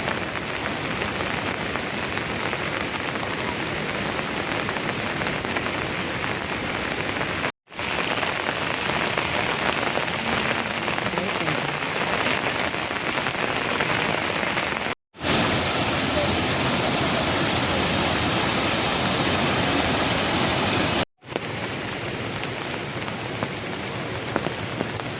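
Heavy rain falling steadily as an even hiss. It cuts out abruptly three times for a split second and comes back at a different level each time, loudest and brightest in the stretch between the second and third breaks.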